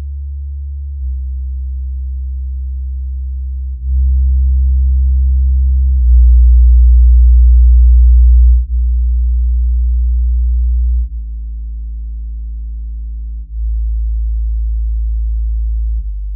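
Deep bass sine test tones played through Edifier active bookshelf speakers: a steady low hum that steps to a new pitch every two to three seconds, with faint overtones above it, loudest in the middle of the run.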